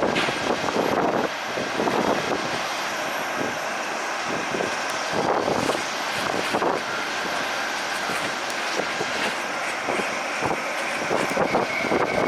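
Jet airliner engines running, heard through strong wind buffeting the microphone in irregular gusts, with a faint steady whine toward the end.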